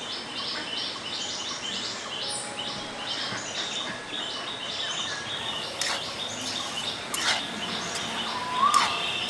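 Woodland birds chirping in quick runs of short, high notes. From about halfway a few sharp knocks come through, the loudest near the end.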